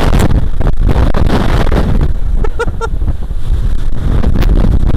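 Strong wind of about 40–45 mph buffeting the camera microphone as a heavy, rumbling roar, with surf breaking underneath.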